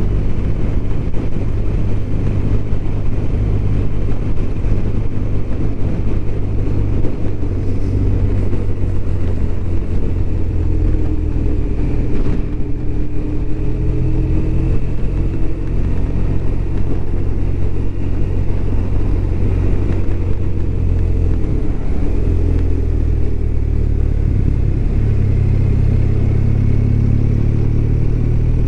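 BMW R1200RT's flat-twin boxer engine running steadily as the motorcycle is ridden, its note shifting a little as the throttle changes.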